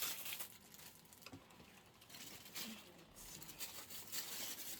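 Faint rustling with scattered light taps and ticks as artificial flower stems are handled and swapped.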